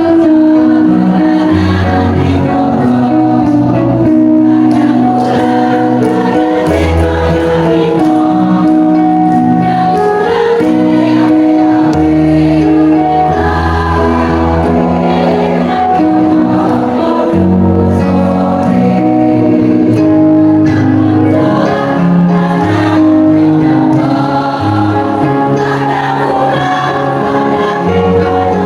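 A choir singing in several voice parts, with long held chords that change every second or two.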